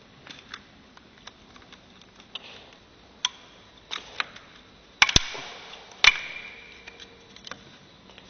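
Scattered light clicks and taps from objects being handled, then two sharp clanks about a second apart, the second ringing briefly like struck metal.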